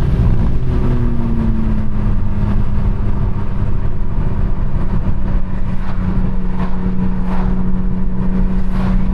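BMW M4 Competition's twin-turbo straight-six and exhaust while cruising, heard from inside the cabin: the engine note eases down about a second in, then holds a steady drone over road rumble.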